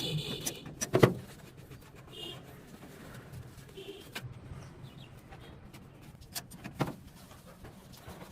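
A few sharp knocks and clicks, as of parts or tools being handled, the loudest about a second in and another near seven seconds, with a couple of brief faint squeaks between them.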